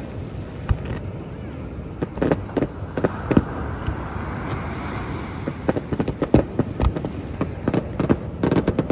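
Fireworks show going off: an irregular run of bangs and pops as shells burst, over a steady background rush.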